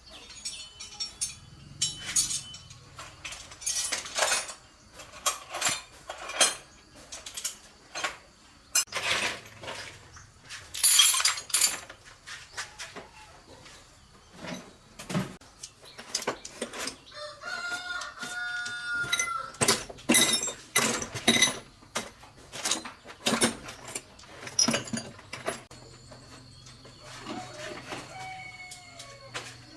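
Irregular sharp knocks and clanks go on throughout. A rooster crows once, about two-thirds of the way through.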